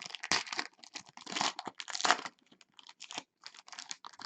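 Trading card pack wrapper being torn open and crinkled by hand, in irregular crackling bursts that fade to lighter rustles near the end.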